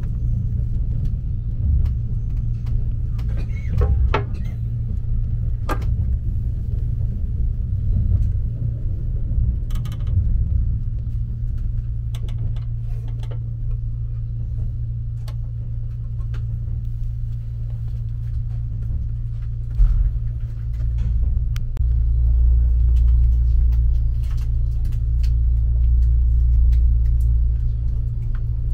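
Kintetsu Hinotori limited express train running, a steady low rumble heard inside the passenger car that grows louder about two-thirds of the way through. Scattered clicks and knocks come from the seat's fold-out table being pulled from the armrest and set up.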